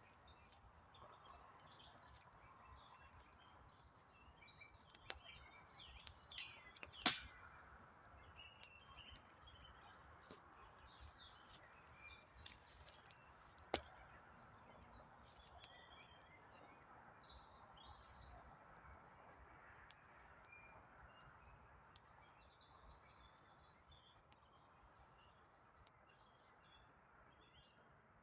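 Faint birdsong, many small scattered chirps, over a low steady hiss, with a few sharp pops from a crackling wood campfire. The loudest pop comes about seven seconds in and another near fourteen seconds.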